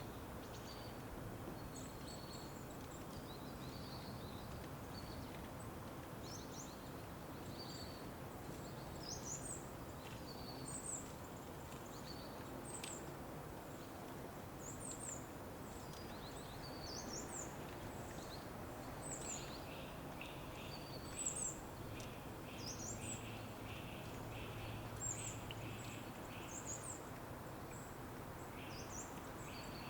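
Small birds chirping with short, high calls over a steady low background hiss of outdoor ambience. From about two-thirds of the way in, a fast repeated chatter of pulses joins the chirps.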